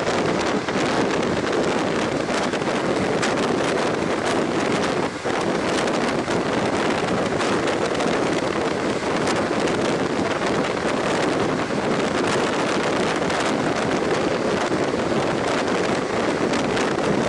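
Wind rushing over the microphone and the steady rolling noise of a passenger train at speed, heard from an open window of the moving train, with scattered sharp ticks through it.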